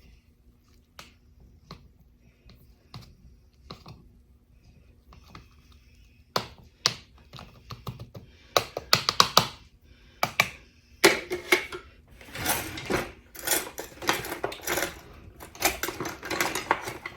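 A utensil clicking and scraping against a glass canning jar packed with garlic cloves, working hot brine down between the cloves to release trapped air. A few scattered clicks at first, then a dense, busy run of clicks and scrapes from about six seconds in.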